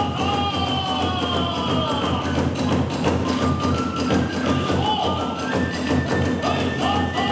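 Kagura hayashi music: drums keep up a steady, dense beat while a bamboo flute plays long held notes that slide down and step up in pitch.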